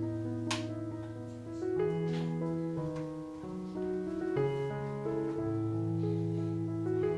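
Background piano music with a slow melody over sustained bass notes. A brief hiss comes about half a second in, and a fainter one about two seconds in.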